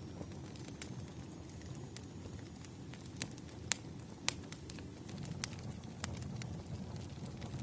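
Campfire crackling: a steady low rumble of burning wood with several sharp pops scattered through, the loudest near the middle.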